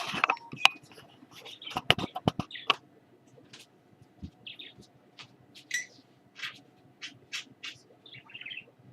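Small pet bird giving short, high chirps every second or so. A few sharp clicks and knocks fall in the first three seconds.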